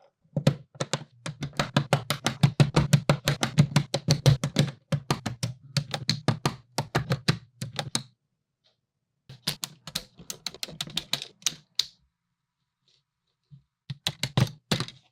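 Rapid, irregular plastic clicking and clattering from a plastic brick model, in three bursts separated by short pauses, with a low hum under the clicks.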